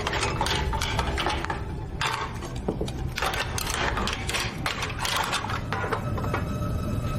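Dishes, cups and utensils clinking and clattering in irregular short knocks over a low steady hum of restaurant background noise.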